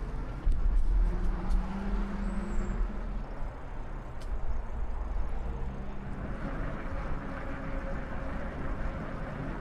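Road traffic passing on a nearby highway: a steady low rumble with a faint engine hum.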